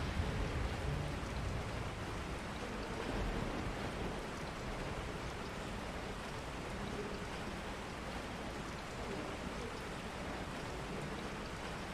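Steady rain, an even hiss, with a low rumble in the first second.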